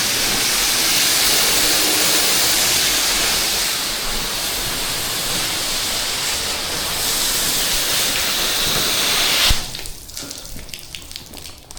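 Pressure washer wand spraying a steady jet of water against the house, a loud even hiss that cuts off suddenly near the end as the spray stops, leaving faint ticking.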